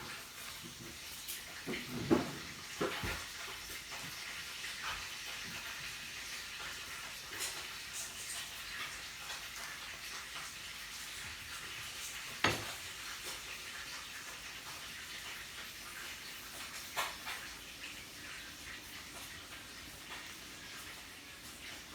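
Meat sizzling on a yakiniku grill with a steady hiss, with a few sharp clicks of utensils against dishes or the grill, the loudest about two seconds in and near the middle.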